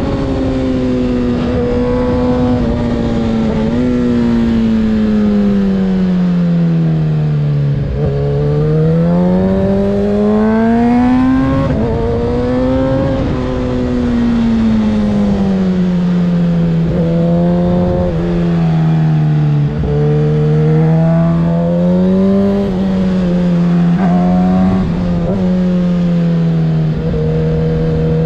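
2024 Kawasaki ZX-6R 636's inline-four engine through a Graves aftermarket exhaust, under way with the revs rising and falling several times and a few brief breaks in the note.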